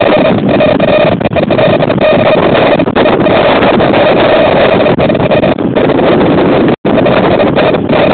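Blizzard wind blasting the microphone: a loud, continuous rushing with a steady drone underneath, briefly cutting out about seven seconds in.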